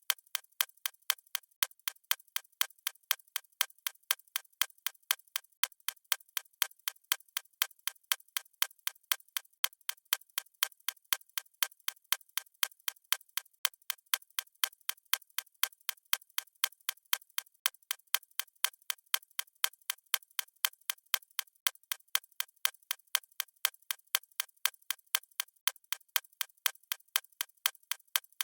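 A clock ticking in a steady, even rhythm of crisp, high clicks.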